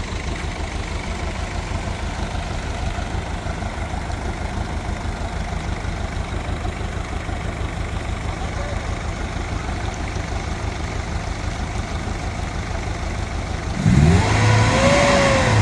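An engine running steadily with a fast, even low throb. Near the end, a loud pitched call rises and then falls in pitch over it.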